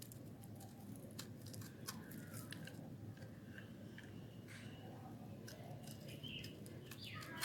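Knife cutting hard, dry soap: irregular crisp clicks and crackles as the soap breaks and flakes.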